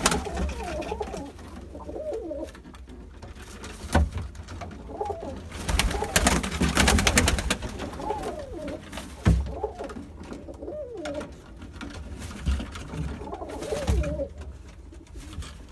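Pigeons cooing, with wavering calls repeating and overlapping. A few sharp knocks or clicks cut in, with a dense run of them about six to seven and a half seconds in.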